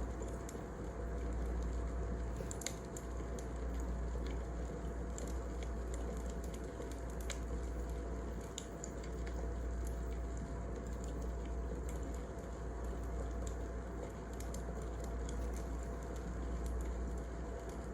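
Wood fire burning in a fireplace: a steady low rumble that swells and fades every couple of seconds, with scattered sharp crackles and pops.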